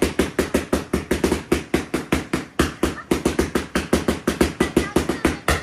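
Rapid, evenly spaced firework shots, about six a second, each a sharp bang that dies away quickly: a multi-shot firework barrage firing.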